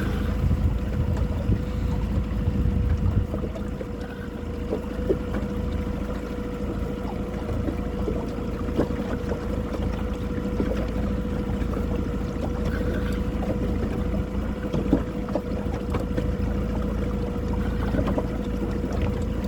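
A small fishing boat's motor running steadily with the boat under way, giving a constant low rumble and an even hum, with scattered small knocks.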